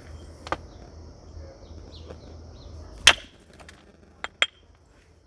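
Knapping strikes of a natural tool on a flint nodule: four sharp clicks. There is one light strike about half a second in, the loudest strike about three seconds in, and two quick strikes close together near the end. A steady high insect drone runs behind the first strikes.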